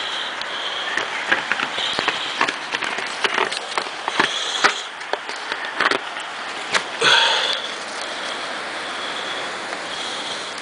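Blizzard wind blowing over the microphone, with scattered ticks and crackles through it and a stronger rush about seven seconds in.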